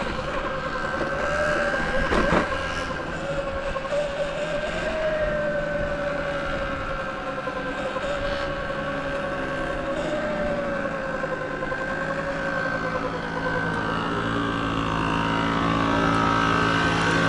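A motorbike running at a fairly steady speed, heard as a steady whine whose pitch wavers slightly and slowly drifts. From about two-thirds of the way in, a lower steady hum takes over and grows a little louder.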